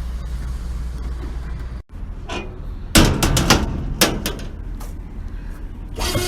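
Industrial grocery store baler: its motor hums steadily, then after an abrupt cut comes a run of loud metal bangs and clanks, about eight over two and a half seconds, the loudest about three seconds in.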